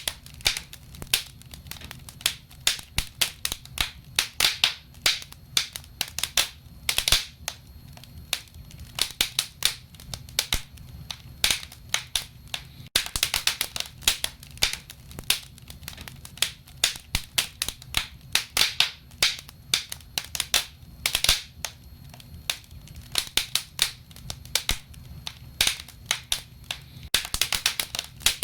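Wood fire burning in a fireplace, crackling with irregular sharp pops and snaps, some in quick clusters, over a steady low rumble of the flames.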